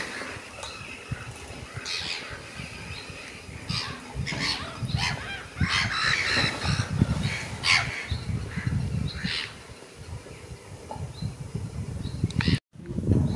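Birds calling in short, scattered calls over a low rumble, with a brief dropout near the end.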